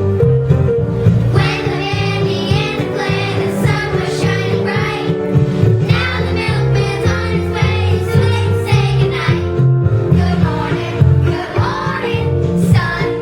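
Children singing a musical number over an instrumental backing track with a moving bass line.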